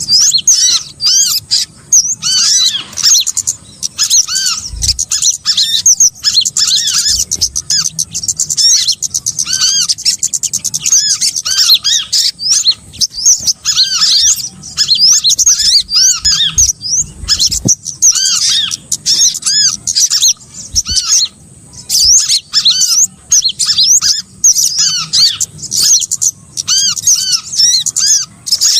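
Bird-lure recording of small songbirds: a dense, continuous run of high, quick arched chirps and squeaky calls, several a second, with many birds calling over one another. It is the kind of call track played to draw small birds in for trapping.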